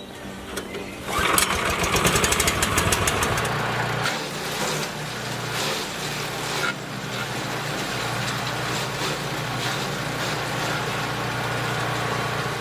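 An engine-driven wood-processing machine starting up about a second in with a rapid rattling, then running steadily.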